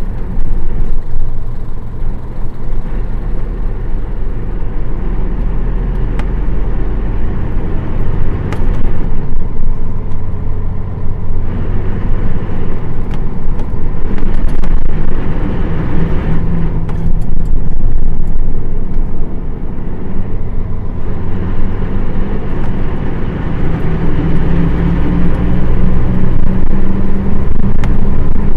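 Nissan Diesel KL-UA452KAN city bus running on the road, its PF6 inline-six diesel engine's pitch rising and falling several times as it pulls away and changes speed, with scattered clicks and rattles.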